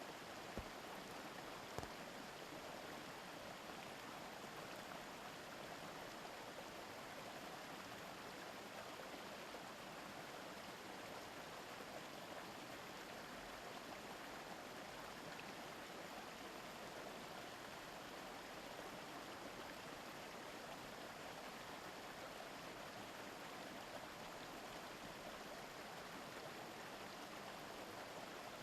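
Steady murmur of a shallow mountain stream flowing over stones, with two faint brief clicks near the start.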